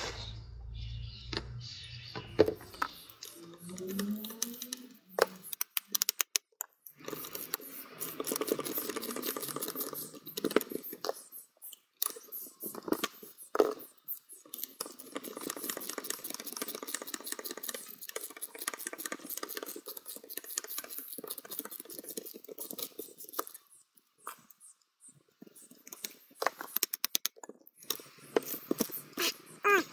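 Irregular clicks, scrapes and rattles of small metal parts and hand tools as a Toyota MMT gear-shift actuator is taken apart and its second electric motor removed. A low hum sounds in the first couple of seconds.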